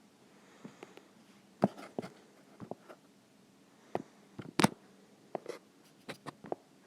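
About a dozen short, irregular clicks and taps in a small room, the loudest about one and a half seconds in and just past the middle.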